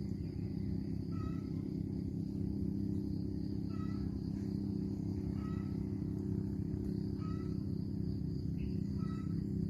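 A bird repeating a short call five times at irregular intervals of about two seconds, over a steady low hum.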